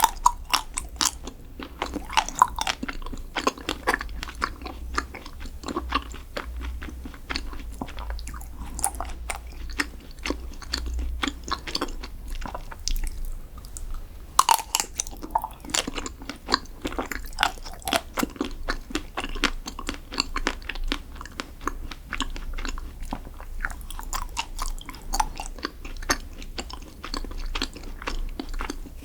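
Close-miked chewing and crunching of chocolate desserts, with crisp crackles throughout and louder bites at the start and about halfway through.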